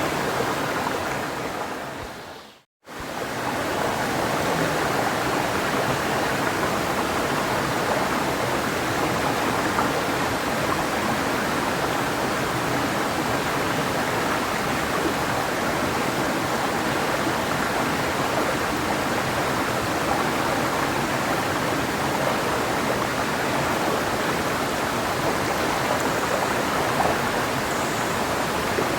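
Clear mountain river flowing, a steady even rush of water. About two seconds in, the rush fades away to a moment of silence and swells back within a second, like a join between two looped recordings.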